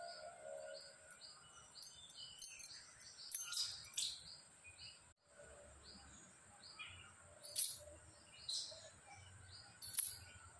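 Birds chirping: a short falling chirp repeated about twice a second, with louder calls scattered through, over a steady high-pitched drone. The sound cuts out briefly about halfway.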